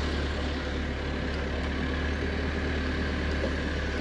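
Suzuki Jimny driving, a steady low engine and road drone with hiss, no change in pace.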